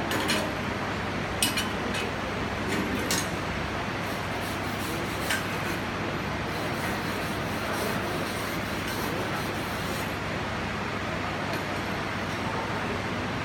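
Electric arc welding: a steady hiss over a low hum, with a few sharp clicks in the first five seconds.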